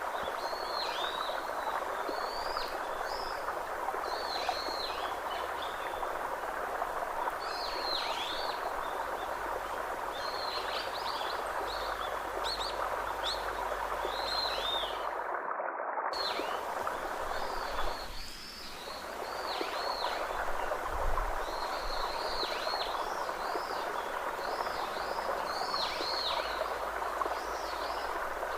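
Birds chirping over and over in short, high, arching notes above a steady rushing background noise. The chirps briefly cut out about halfway through.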